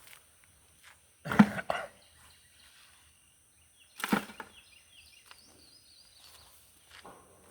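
Two loud knocks about three seconds apart, the first a quick cluster of strikes. Faint bird chirps are heard between them.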